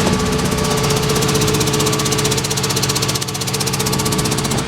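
The service truck's machinery running steadily: a rapid, even mechanical pulse over a steady hum, typical of the engine idling with the truck's air compressor running. It stops abruptly at the end.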